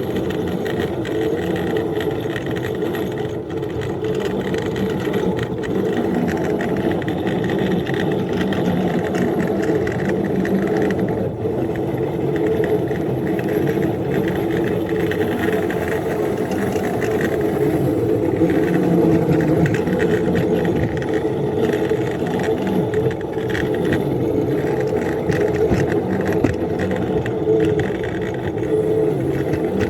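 Engine of a 7½-inch-gauge ride-on locomotive running steadily.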